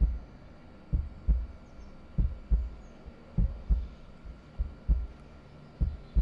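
Slow heartbeat: low double thumps, lub-dub, repeating about every 1.2 seconds, five times.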